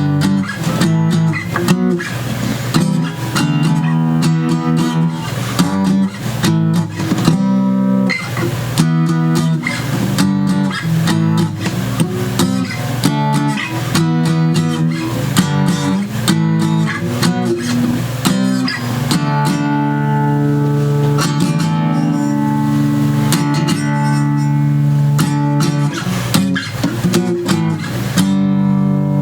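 Guitar music: a guitar strumming and picking chords, with many strokes and sustained, ringing chords.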